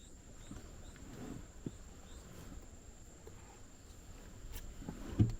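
Jungle ambience: insects hold a steady high-pitched whine, with faint short chirps scattered through it. About five seconds in there is a single low thump.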